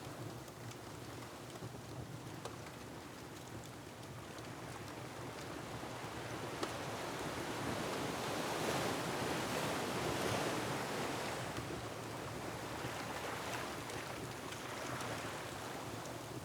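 Ocean waves surging against a rocky shore, one swell building to a peak about halfway through and easing off, with the faint crackle of a wood fire.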